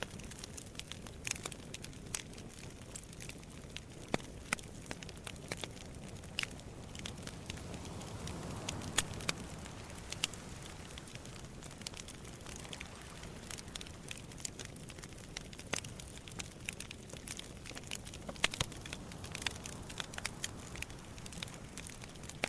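Wood campfire crackling and popping, irregular sharp snaps over a low steady rush of sea waves that swells briefly about eight seconds in.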